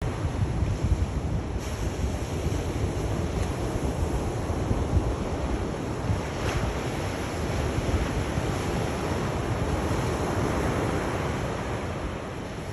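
Sea surf: waves washing in a continuous roar of noise, with a deep, uneven rumble underneath.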